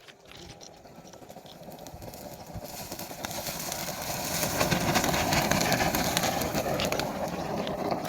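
Rail welding on a railway track: a rushing, hissing noise that builds over a couple of seconds about three seconds in and then holds loud.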